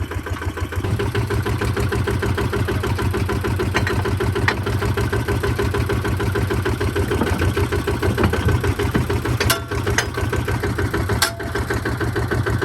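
Kubota tractor's diesel engine running steadily at idle, picking up slightly about a second in. Two sharp clicks are heard near the end.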